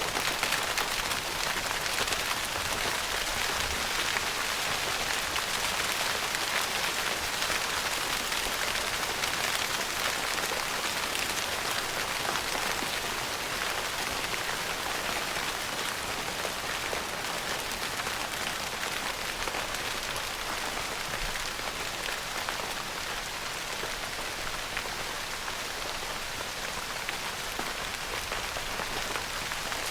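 Steady rain pattering on a tent's fabric roof: a dense, even hiss of many small drops.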